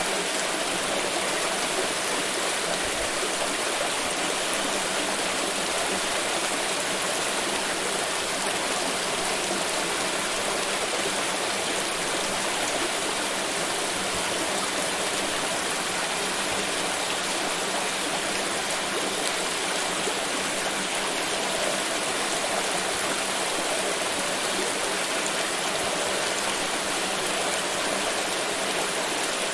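Water pouring and splashing in a continuous, even rush that holds steady throughout.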